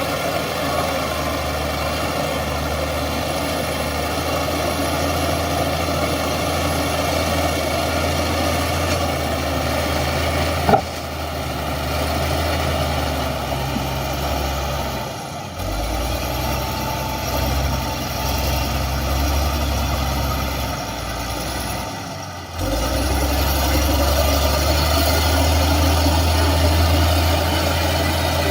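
Heavy construction machine's diesel engine running steadily with a deep hum, a sharp knock about eleven seconds in, and two brief drops in level later on.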